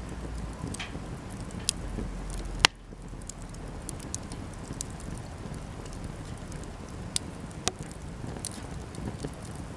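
Cedar offcuts burning in a campfire, crackling with scattered sharp pops, the loudest snap a little under three seconds in, over a steady low noise.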